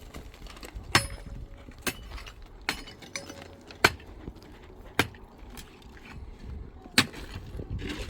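Sharp knocks of a tool striking hard material, at an irregular pace of roughly one a second, over a low background rumble.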